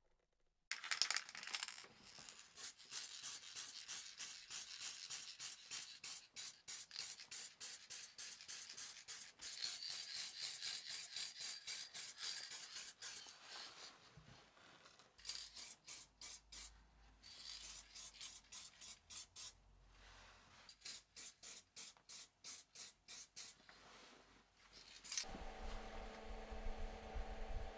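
Rapid back-and-forth scraping strokes on a surface, in bouts with short pauses. About 25 seconds in, a steady motor hum with a clear pitch starts.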